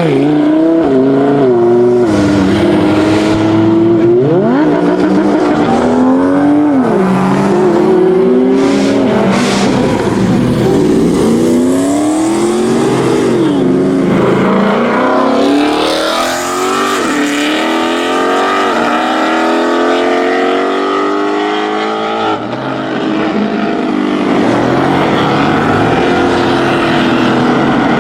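Performance car engines revving and accelerating away, the engine pitch climbing and dropping again and again, one car after another.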